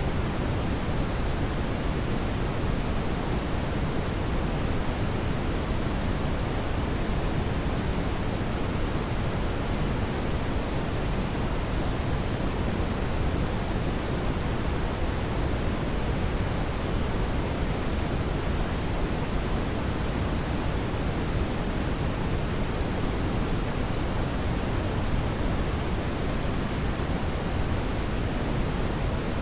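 Steady brown noise: an even, deep rushing hiss, heaviest in the low end, that stays unchanged throughout.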